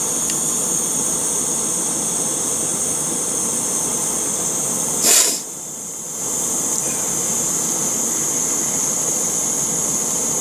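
A steady hiss, with a brief louder burst about five seconds in; the hiss then drops for about a second and comes back.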